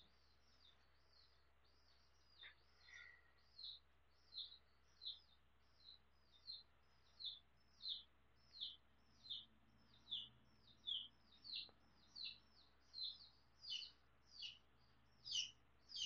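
A small bird chirping faintly and over and over, each call a short high note sliding downward, repeating about every two-thirds of a second, over a faint low hum.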